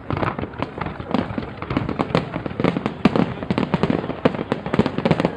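Aerial fireworks display: a dense, irregular run of bangs and crackling bursts, many per second.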